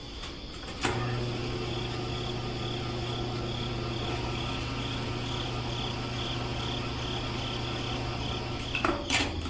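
A small motor running steadily with an even hum, starting about a second in and stopping shortly before the end.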